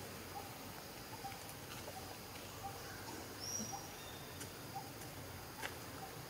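Faint forest ambience with a bird repeating a short mid-pitched note about twice a second, and a brief high whistle about halfway through.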